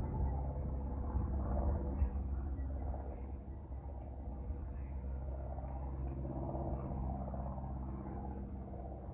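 Aircraft engine rumble with a steady low hum, slowly fading as the plane moves away.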